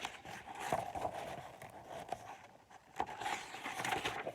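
Paper rustling and scraping as a picture book's page is handled and turned, in two bouts with small clicks.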